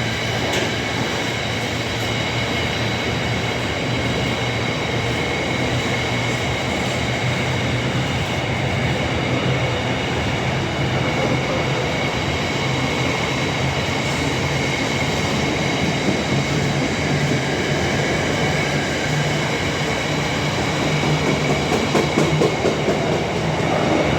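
A train running through the station, with continuous wheel-on-rail noise and a steady low hum. Near the end it comes with uneven thumps from a flat wheel.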